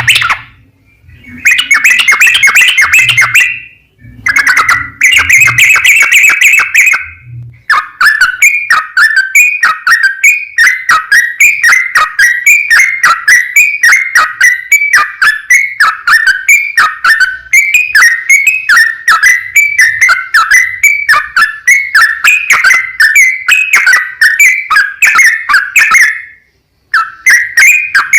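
Yellow-vented bulbul (trucukan) singing loudly in fast, repeated chattering phrases, with brief pauses about one, four and seven seconds in and again near the end. From about eight seconds in, the notes run together in one long, rapid rolling sequence: the 'ropel panjang' song.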